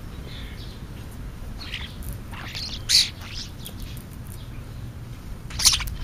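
Birds feeding on the ground, giving short scattered chirps. The loudest chirp comes about three seconds in, and a quick cluster follows near the end.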